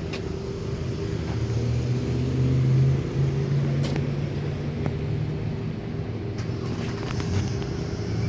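A car engine running close by, a steady low hum that builds for the first few seconds and then holds, with a few light ticks.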